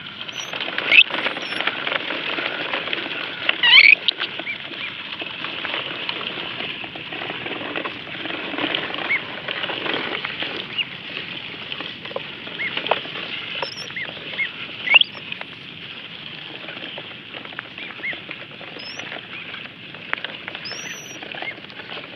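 Ducklings peeping: scattered short, high, rising peeps, loudest about a second in and about four seconds in, over a constant noisy background.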